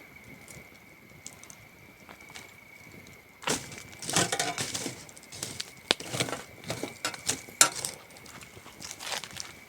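Campfire wood crackling, with sparse faint clicks at first and then a run of louder sharp snaps and pops from about three and a half seconds in. Under it, crickets keep up a steady high-pitched trill.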